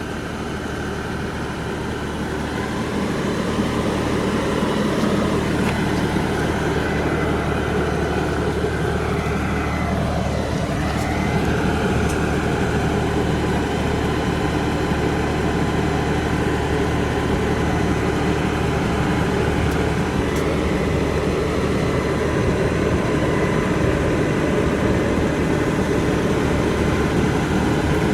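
LS tractor's diesel engine running steadily, growing louder over the first few seconds and then holding level.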